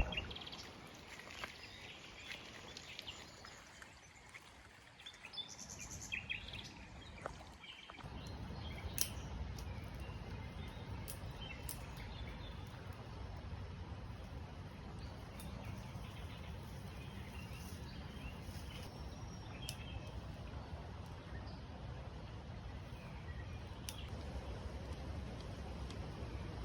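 Outdoor ambience with small birds chirping. From about eight seconds in, a steady low rumbling noise sets in, with a few sharp clicks.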